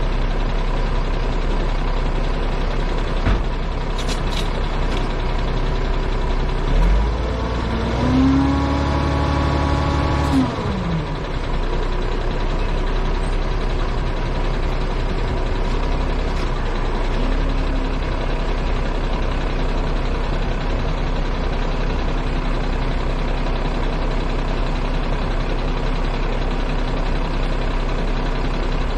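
A heavy truck's engine running steadily. About seven seconds in it revs up, holds for a few seconds, then drops back. A few short sharp clicks or hisses sound over it.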